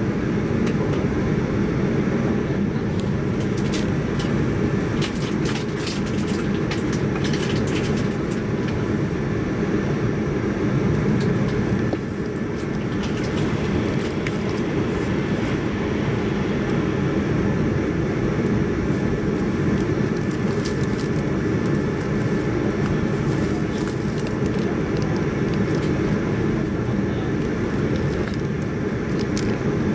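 JR 185 series electric multiple unit running on the line, heard from inside the car: a steady low rumble of wheels on rail, with scattered sharp clicks and rattles in two stretches, about four seconds in and again about twenty seconds in.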